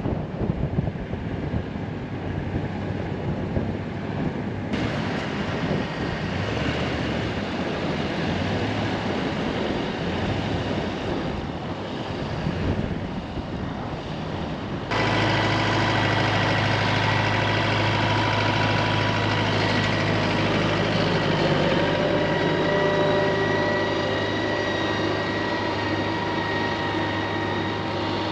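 Tractor engine running under steady load while clearing snow, with a rushing noise over it in the first half. About fifteen seconds in, the sound changes abruptly to a steady engine hum with a constant whine.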